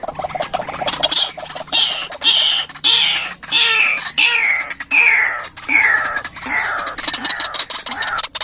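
White-breasted waterhen (ruak-ruak) calling: a run of about ten loud notes, roughly two a second, each one gliding down in pitch, the series itself stepping lower as it goes.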